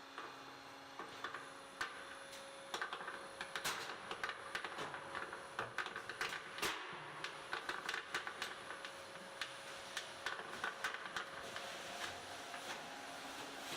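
Gutter-making machine at work: irregular light metallic clicks and rattles over a faint steady hum.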